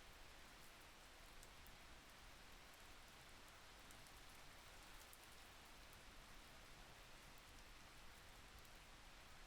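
Faint steady rain: a soft, even hiss with a few light drop ticks.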